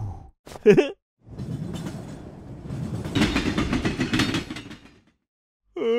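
Train sound effect: a speeding train rushing along the tracks with a quick rhythmic clatter of wheels. It builds up just over a second in, runs for about four seconds and stops. Short vocal sounds come in the first second, and a voice starts near the end.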